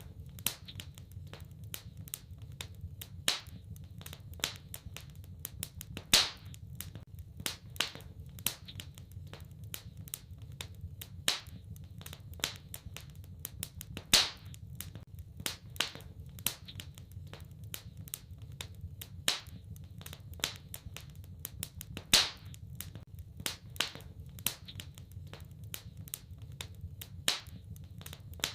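Wood fire crackling in a fireplace: irregular sharp pops and snaps, a few a second, over a steady low rumble, with a louder pop about every eight seconds.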